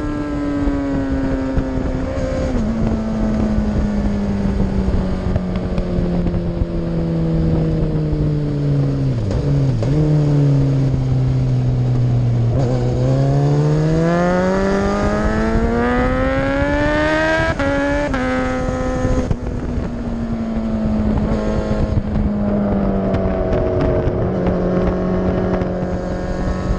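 Racing motorcycle engine heard from the bike itself, with steady wind rush. The revs fall for about twelve seconds as the bike slows, climb for about five seconds under acceleration, drop suddenly with a gear change, then slowly sink again.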